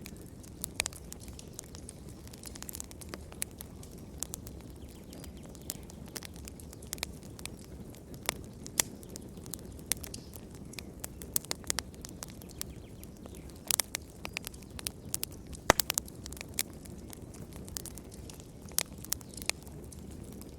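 Wood fire burning in a fireplace: a steady low hiss with irregular sharp crackles and pops, the loudest pop about fifteen seconds in.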